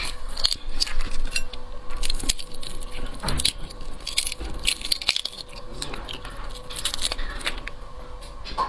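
Whole shrimp being peeled and eaten up close: the shells crackle and click irregularly as they are broken off, with chewing between.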